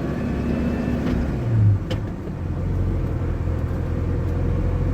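GAZ 2790 van's 405 petrol engine running and road noise from inside the cab while driving, with a brief louder thud about a second and a half in.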